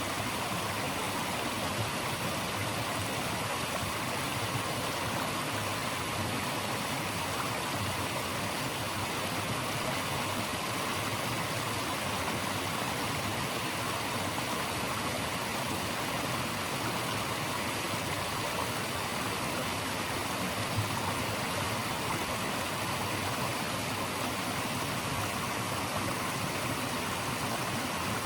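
Running water rushing steadily, an even, unbroken hiss.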